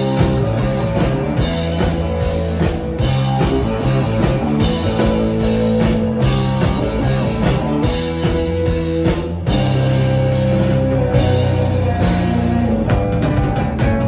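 Live rock band playing loud, with drum kit, electric guitar and bass together in a driving instrumental passage.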